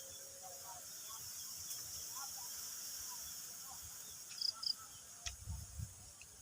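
Outdoor ambience: a steady high insect drone with scattered faint short chirps. Low rumbling thumps start about five seconds in.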